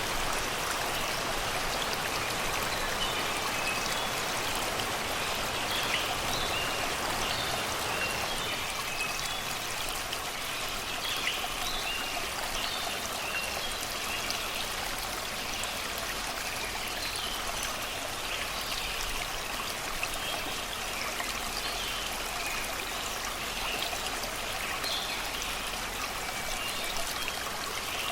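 Shallow river babbling steadily over rocks and stones, with birds chirping and singing in short high calls throughout.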